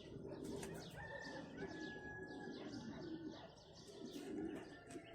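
A chorus of small birds chirping rapidly, with doves cooing underneath.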